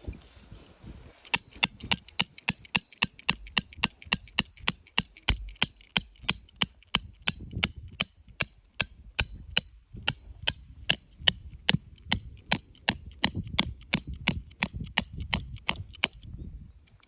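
Rapid, even metallic strikes, about three a second, each with a short high ring. They start about a second in and stop shortly before the end.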